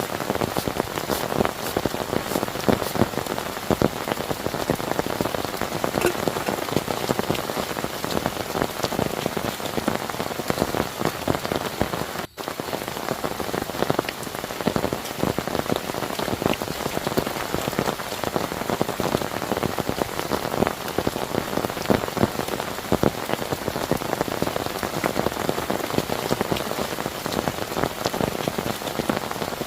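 Heavy rain falling steadily, a dense patter of countless drops striking a surface. The sound cuts out for an instant about twelve seconds in.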